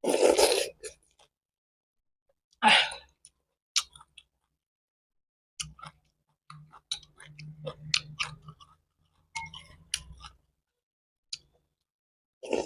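Close-miked eating of phở: chewing and slurping noodles, with two short loud slurps, one at the start and one near three seconds in, followed by a run of small wet mouth clicks and smacks.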